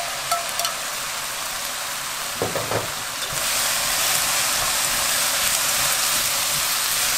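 Dried shrimp sizzling in a hot wok in soy sauce and syrup while sliced green peppers are pushed in and stir-fried with wooden chopsticks. A few light clicks of chopsticks in the first second and a knock about two and a half seconds in; the sizzle grows louder from about three and a half seconds in.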